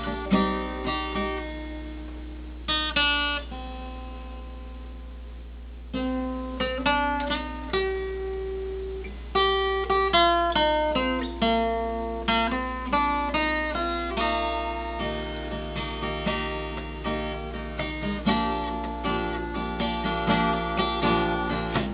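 Acoustic guitar playing an instrumental break: picked single-note runs mixed with strummed chords. A chord is left ringing for a few seconds about a quarter of the way in before the picking resumes.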